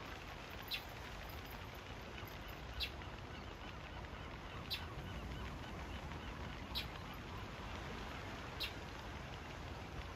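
A flock of seabirds calling over a steady hiss of background noise, with a sharp click about every two seconds.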